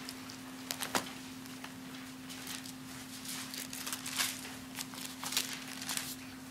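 Bible pages rustling as they are turned, with scattered soft rustles and a few light clicks, over a steady low hum.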